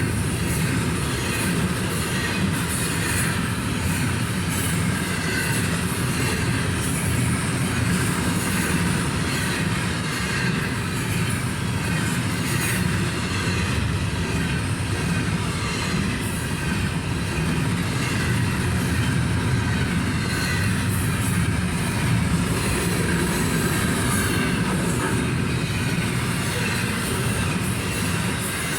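Freight train cars rolling steadily past, a continuous rumble of steel wheels on rail with some wheel squeal.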